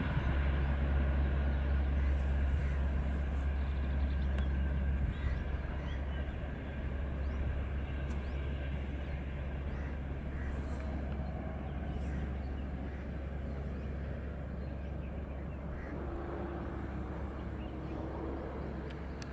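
Diesel-hauled express train moving away: a steady low rumble that slowly dies away, with faint bird chirps over it.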